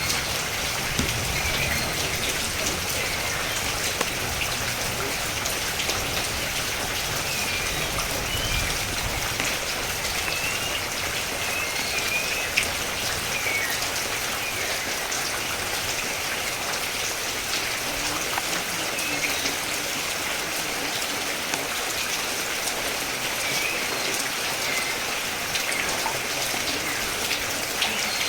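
Steady rain falling and pattering on surfaces, with many small drop impacts, and short high chirps scattered through it.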